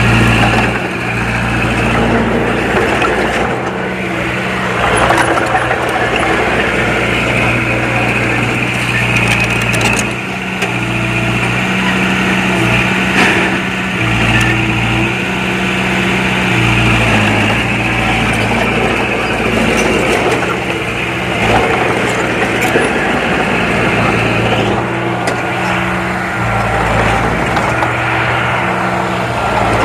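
Diesel engine of a Komatsu D20P bulldozer running under changing load while it pushes fill. The pitch steps up and down every few seconds.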